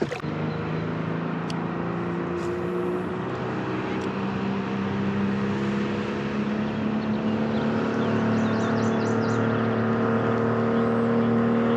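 A motor engine running steadily at an even pitch, slowly growing louder as it draws nearer.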